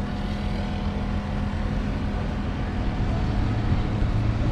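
Fendt 312 Vario tractor's 4.4-litre four-cylinder diesel engine running at a steady speed.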